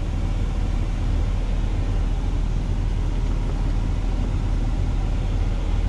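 Steady low rumble of a semi truck's diesel engine idling, heard inside the cab.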